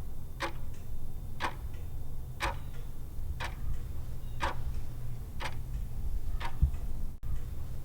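Clock-tick countdown sound effect, one sharp tick a second, over a low steady hum.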